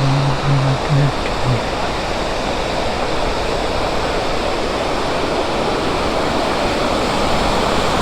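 Periyakanal waterfall rushing, a loud, steady roar of falling water. A low voice makes a few short sounds in the first second and a half.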